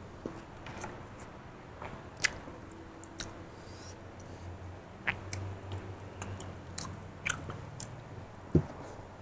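A person chewing food close to a clip-on microphone: wet smacks and sharp mouth clicks at irregular intervals, the loudest a little over two seconds in, about five seconds in and near the end.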